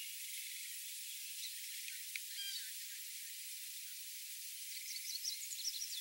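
Faint, steady outdoor background hiss with a few short, high chirps, a couple about two seconds in and a quick run of them near the end.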